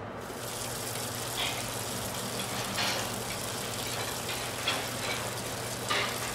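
Food frying in a hot pan: a steady sizzle with a few brief louder crackles.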